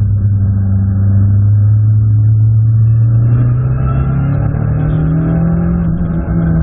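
Abarth 500 Assetto Corsa race car's turbocharged 1.4-litre four-cylinder engine heard from inside the cabin. It drones steadily, then climbs in pitch from about halfway through as the car accelerates, and holds at the higher note.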